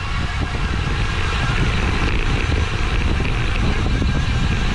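Wind rushing over the microphone and tyre noise from a road bike at race speed in a pack, growing slightly louder.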